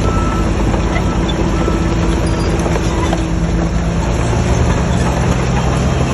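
Shantui crawler bulldozer's diesel engine running steadily, with dense metallic clattering from its steel tracks.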